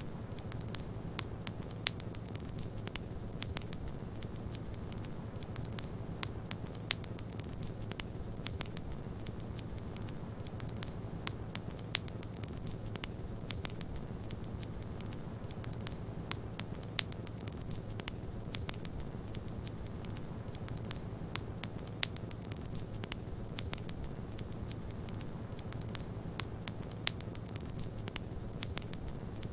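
Wood fire crackling in a fireplace over a steady low rush of snowstorm wind, with a sharper pop about every five seconds.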